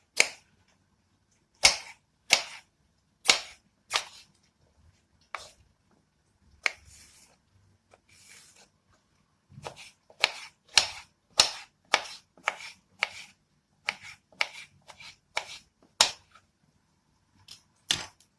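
Kitchen knife chopping on a cutting board: sharp knocks, spaced out at first and coming faster about ten seconds in.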